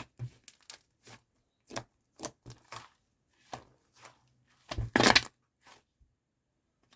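Slime being pressed and poked on a wooden board, making irregular sticky clicks and crackling pops, with a longer, louder crackle about five seconds in.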